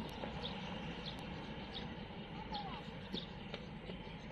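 Quiet outdoor background with small birds chirping faintly, short high chirps repeating about every half second or so.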